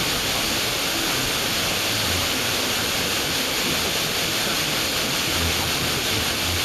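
FM radio receiver hiss, a steady even rush of static, as the weak 91.4 MHz broadcast carried by aircraft scatter fades down into the noise.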